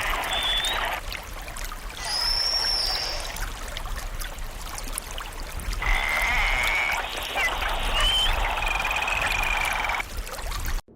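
Ducks quacking over trickling water, in several bursts that start and stop abruptly, with a few thin high whistles.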